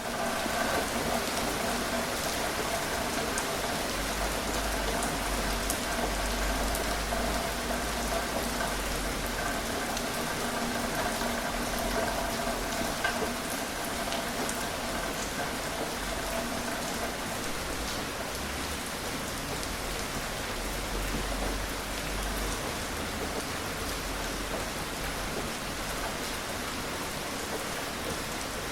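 Steady rain falling: an even hiss with scattered individual drops ticking on a surface. A faint low rumble comes and goes beneath it.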